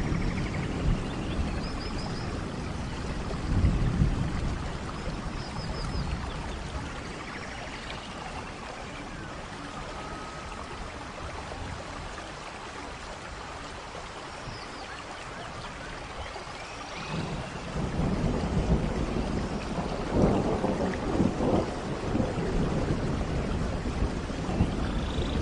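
Rainforest thunderstorm: steady rain with low rumbling thunder that eases off in the middle and swells again about two-thirds of the way through, with a few faint high chirps over the rain.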